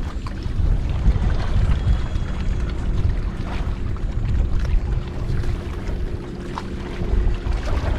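Wind rumbling on the microphone on open water aboard a kayak, with scattered faint clicks and a faint steady hum through the middle.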